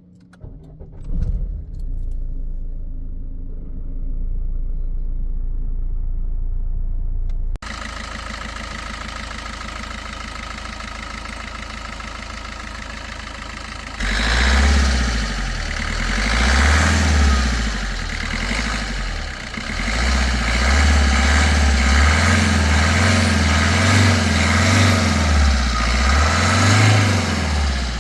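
Maruti Suzuki Ciaz's 1.3 Multijet four-cylinder turbo-diesel starting about a second in and settling into a steady idle. About halfway through it gets abruptly louder and is revved again and again, the sound swelling and falling, with the turbo whistle over the engine.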